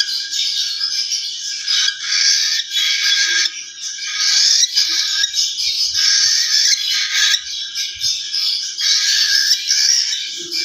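Birds chirping and calling continuously, a dense, high-pitched chatter.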